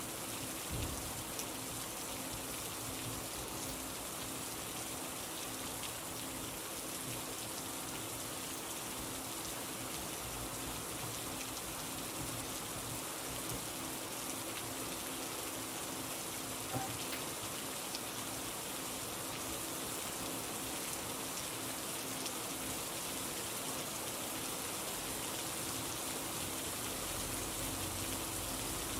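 Steady rain: an even hiss of falling rain with occasional drop ticks, over a faint steady low hum.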